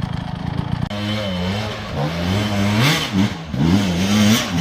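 Dirt bike engine under changing throttle. It runs at a steady low note, then about a second in it switches abruptly to revving, the pitch rising and falling again and again.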